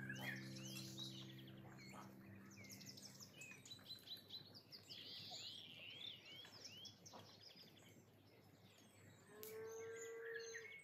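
Faint songbird chirping, many short repeated rising calls overlapping throughout.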